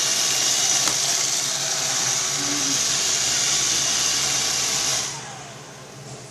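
Roomba robot vacuum running with a steady, high whirring hiss, then shutting off about five seconds in, its motor winding down in a brief falling whine.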